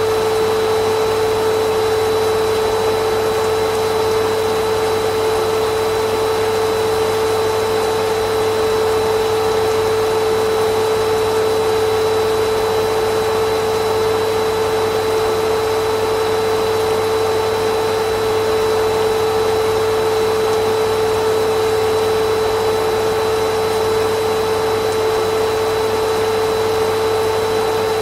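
Vacuum cleaner motor running steadily with a constant whine, no change in pitch or level.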